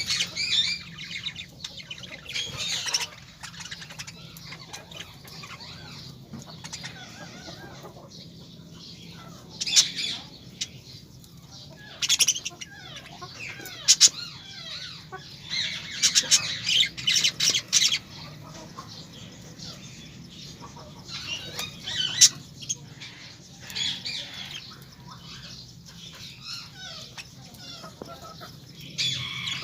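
Several birds calling with many short, high-pitched calls, with louder clusters of calls at several points, over a faint steady low hum.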